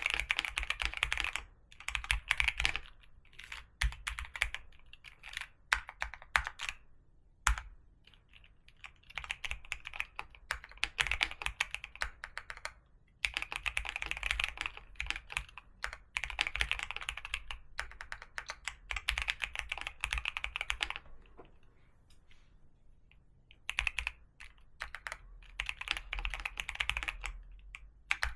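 Typing on a computer keyboard: runs of rapid keystrokes a few seconds long, broken by short pauses, with a longer pause a little over twenty seconds in.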